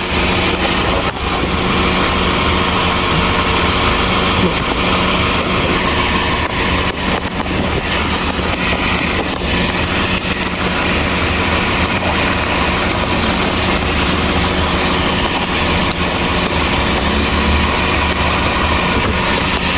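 Chevrolet Traverse engine idling steadily, freshly filled with new oil.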